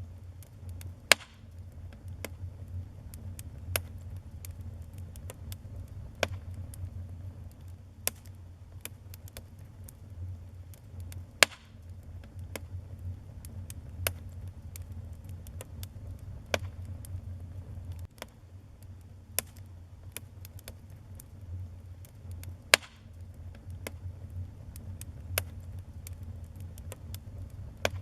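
Wood fire burning in a fireplace, crackling with irregular small snaps and a few louder sharp pops, over a steady low rumble.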